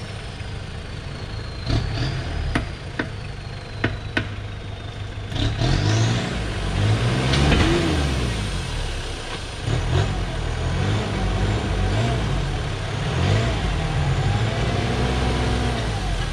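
A four-wheel drive's engine revving up and down under load, its pitch rising and falling several times and loudest about halfway through. Several sharp knocks come in the first five or so seconds.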